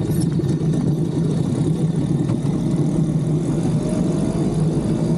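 An engine running steadily with a constant low drone, and a faint rising whine about four seconds in.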